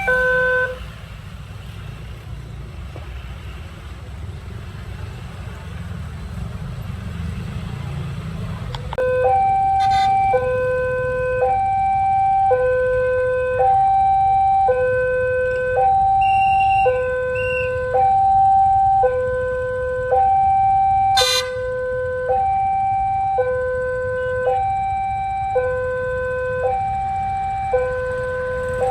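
Railway level-crossing warning alarm sounding an alternating two-tone high–low signal, each tone held about 0.7 s, warning that a train is coming and the crossing is closing. It breaks off briefly at the start, leaving only a low rumble of engines, and resumes about nine seconds in. A brief sharp sound cuts through it about two-thirds of the way through.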